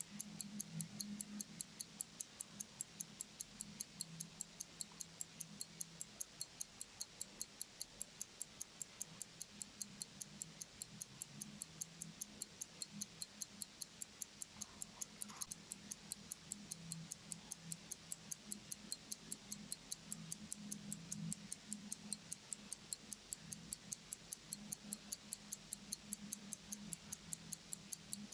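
A 1916 IWC Schaffhausen calibre 57 pocket-watch movement ticking in a quick, even rhythm as its balance wheel swings, running after restoration. A faint low hum lies underneath.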